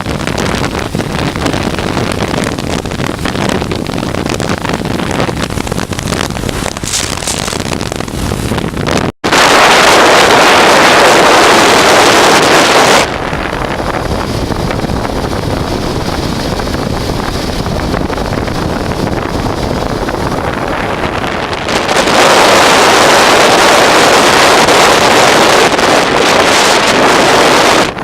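Wind rushing over the microphone of a moving 1988 Honda Transalp motorcycle, with the bike's engine and road noise running under it. The sound cuts out for an instant about nine seconds in. The wind gets noticeably louder for a few seconds right after that, and again for the last several seconds.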